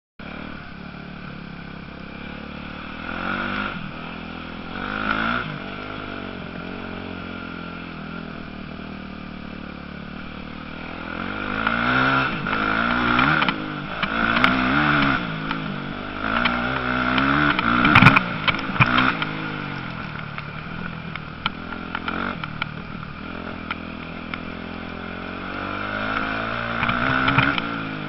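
Motocross bikes racing, their engines revving up and down as they pass again and again, loudest in a cluster through the middle. A sharp clack about two-thirds of the way through.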